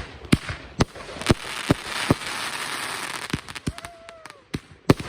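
Consumer fireworks going off: a string of sharp bangs about every half second, with a dense crackling hiss through the middle and more scattered cracks and pops near the end.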